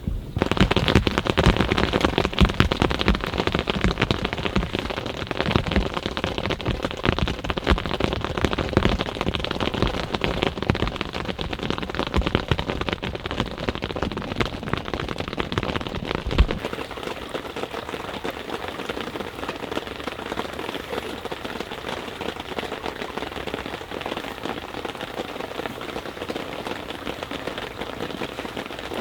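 Rain pattering mixed with dense, close-packed crackling from a wood campfire. A low rumble underneath cuts off abruptly a little past halfway.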